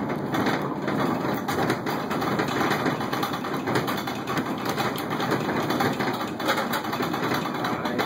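Moving U-Haul truck heard from inside its cargo box: a steady rumble of engine and road noise with many small knocks and rattles.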